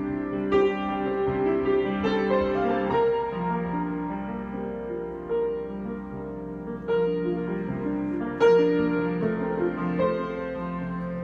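Solo piano improvisation: slow, sustained chords and single notes, new ones struck every second or two and left to ring and fade.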